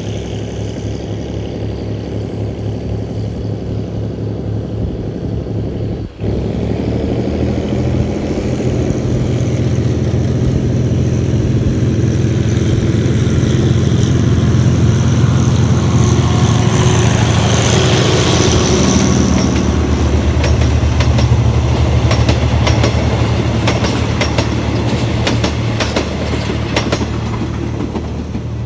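GE diesel-electric locomotive hauling a passenger train past: the diesel engine's steady low drone grows louder as it approaches and drops in pitch as it goes by. Then a quick run of wheel clicks over the rail joints comes from the passing carriages, and the sound fades away.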